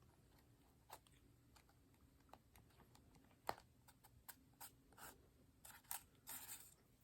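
Quiet handling of craft paper: scattered light taps and clicks, one sharper tap about halfway through, and a brief paper rustle near the end.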